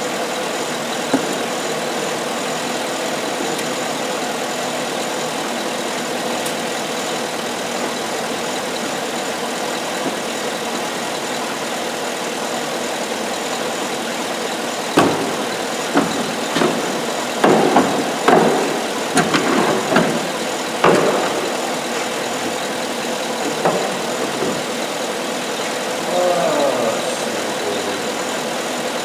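GMC Sierra Denali's 6.2-litre V8 idling steadily, with a run of sharp clicks and knocks about fifteen to twenty-one seconds in.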